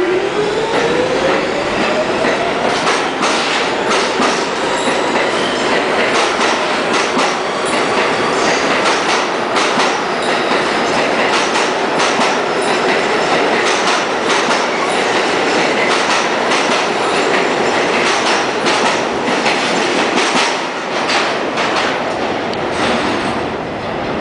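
An R46 subway train pulling out and passing close by. Its motor whine rises in pitch during the first few seconds as it accelerates, then gives way to a steady rumble, with wheels clicking repeatedly over rail joints.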